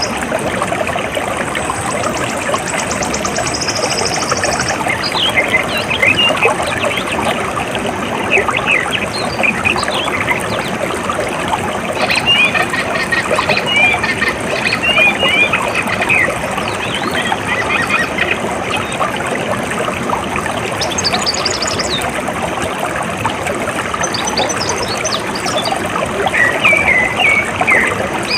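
Water running steadily, like a stream or a small flow, with small birds chirping on and off over it. A high, fast-pulsing buzz stops about five seconds in.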